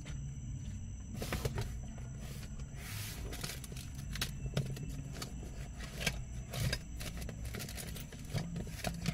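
Vehicle engine running with a steady low rumble inside the cabin, with a string of sharp clicks and rattles starting about a second in.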